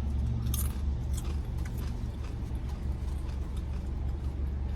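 Steady low rumble of an idling vehicle engine, with a few faint ticks and rustles over it.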